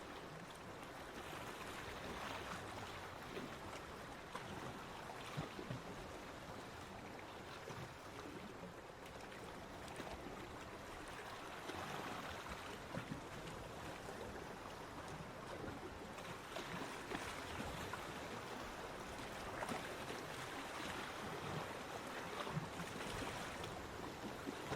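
Sea waves washing onto a beach: a continuous surf wash that swells and eases every few seconds.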